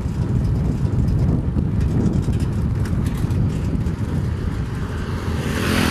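Loud wind buffeting on the microphone: a heavy, gusting low rumble under a steady hiss. The hiss swells just before the sound cuts off abruptly.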